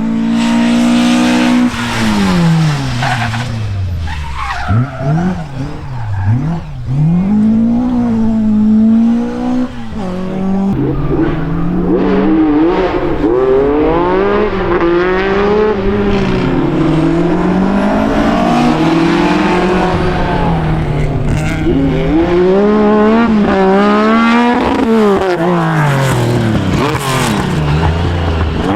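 Rally car engine under hard driving, its note climbing and dropping again and again as it works through the gears and lifts off for corners, with an abrupt change in the sound about eleven seconds in.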